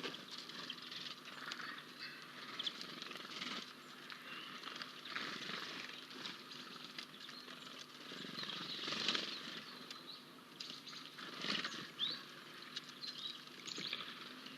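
Birds at a garden bird feeder: scattered short chirps, with brief rustling and fluttering noises coming and going, the strongest a little past the middle.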